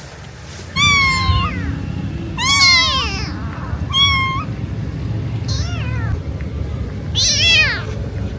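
A cat meowing: five high-pitched cries, each rising then falling, spaced a second or so apart. A steady low rumble runs underneath from about a second in.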